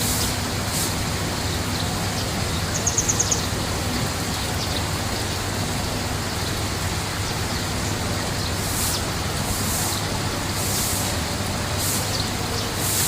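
Steady rushing noise of water at a koi pond, with a short, rapid high chirping trill from a bird about three seconds in.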